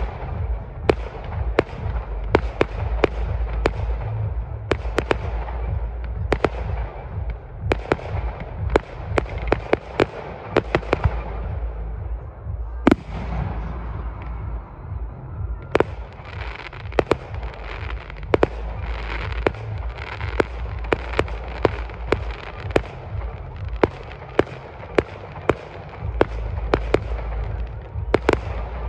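Aerial fireworks display: shells bursting in quick succession with sharp bangs, often one or two a second, and crackling between them. The bangs thin out for a few seconds about halfway through, then pick up again.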